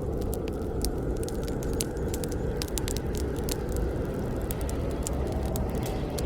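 Wood fire burning with a steady low rush of flames and frequent sharp, irregular crackles and pops.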